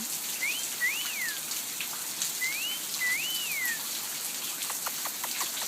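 Steady rain patter, with a two-part whistle heard twice: a quick rising note, then a longer note that rises and falls.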